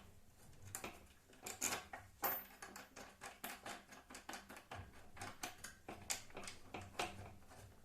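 Irregular light clicks and taps of small hardware and plastic parts being handled while taking pieces off a router table under assembly.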